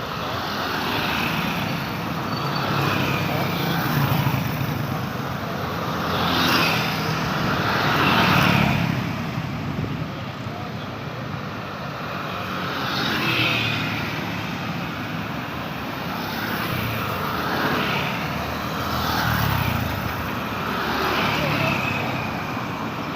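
Busy road traffic: a steady din of cars and motorbikes, with a louder swell every two to three seconds as vehicles pass one after another.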